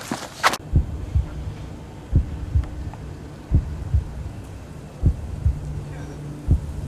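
Slow heartbeat sound effect: deep paired thumps, lub-dub, about every second and a half, over a low steady hum. A brief burst of rustling cuts off suddenly about half a second in.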